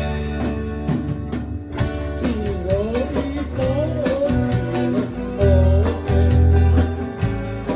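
A band playing a song: a sung melody over guitar, with heavy bass notes.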